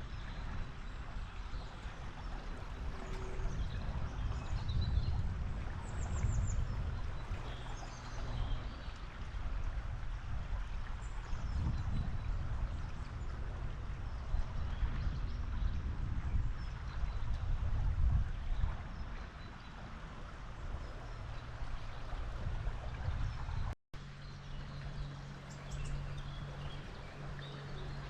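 Running river water rushing steadily, with a few faint bird chirps now and then. The sound drops out for an instant near the end.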